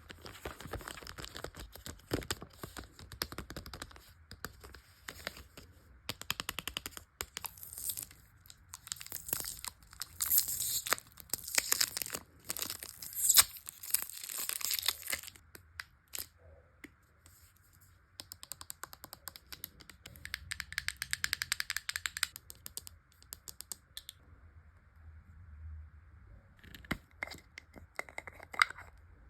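Cosmetics packaging being unwrapped and handled up close: crinkling and tearing with many small clicks and taps, in busy stretches broken by quieter pauses.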